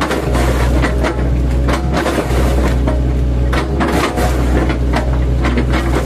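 Mini excavator's engine running steadily under load, with irregular knocks, cracks and crunches as its bucket, fitted with chipping blades, chops oil palm trunks.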